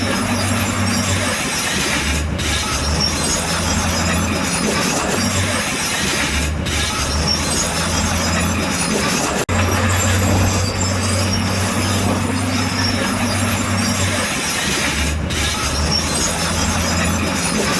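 Heavy diesel earthmoving machinery working: a steady low engine hum under a loud, harsh mechanical noise. The sound breaks off for an instant about halfway through and resumes.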